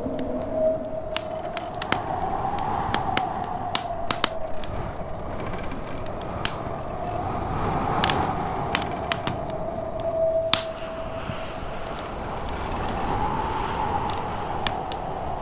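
Wood fire crackling with sharp, irregular pops, over a snowstorm wind howling in a wavering tone that rises and falls.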